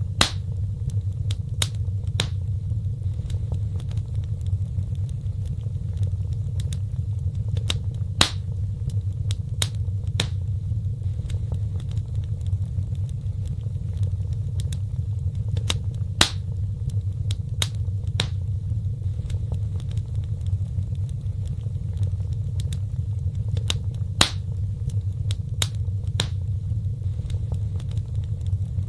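Wood fire crackling and popping in a fireplace, sharp irregular pops over a steady low rumble. The loudest pops come back every eight seconds, the mark of a looped fire recording.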